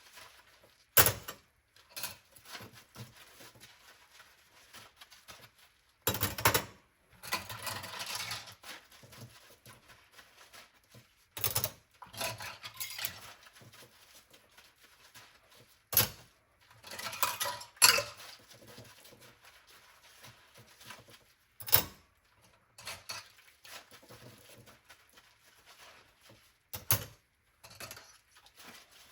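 Dishes and cutlery being handwashed in a sink: separate sharp clinks and knocks of crockery and silverware a few seconds apart, with a couple of longer noisy spells of washing in between.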